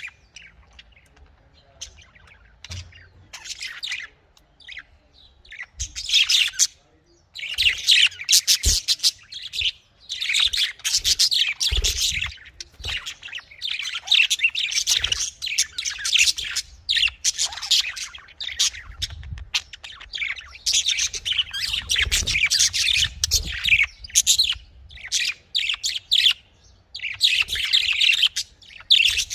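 Budgerigars chirping and chattering in quick twittering bursts, sparse at first, then almost continuous with short pauses from about seven seconds in.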